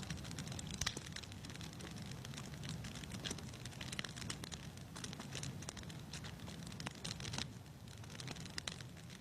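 Wood fire crackling in a fireplace: irregular snaps and pops over a low, steady rumble.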